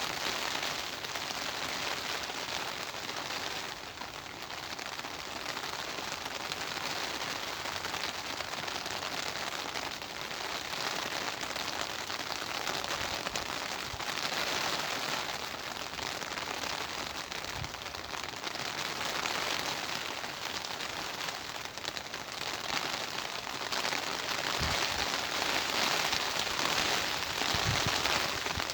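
Steady rain falling in a garden, an even hiss that swells and eases every few seconds, with a few soft low thumps in the second half.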